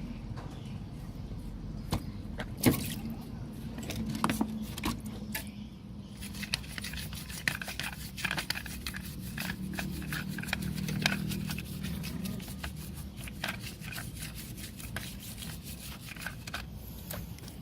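Irregular small clicks, taps and scrapes of handling work on a radio-cassette player, busiest in the middle, over a low steady hum.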